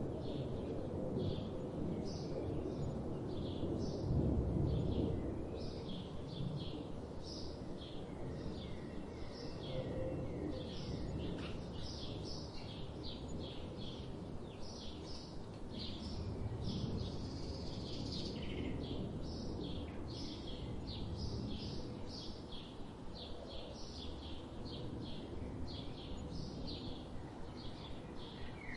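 Songbirds chirping, many short high chirps in quick succession, over a steady low rumble of background noise that swells briefly about four seconds in.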